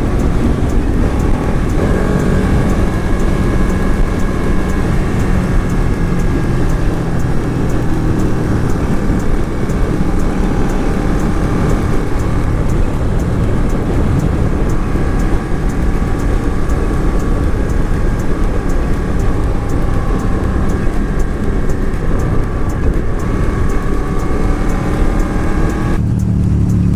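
Motorcycle ridden at road speed: the engine's note drifts gently up and down under heavy wind rush on the microphone. About a second before the end, the hiss suddenly drops away and the sound turns lower and fuller.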